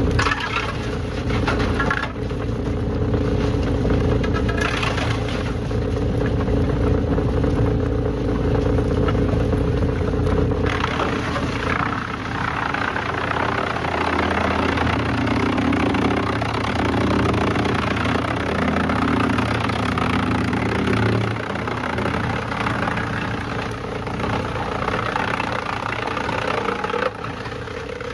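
Heavy machinery running steadily. About ten seconds in, the deep rumble drops away and a shifting, engine-like drone takes over.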